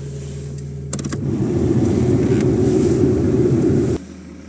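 VW Golf MK4's 1.6-litre four-cylinder petrol engine idling just after a cold start. About a second in there are a few clicks, then the sound turns louder and rougher before dropping off suddenly near the end to a quieter, steady idle.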